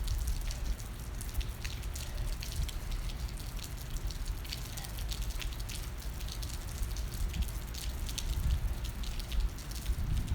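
Rain falling close to the microphone: many scattered, irregular drop ticks over a steady low rumble.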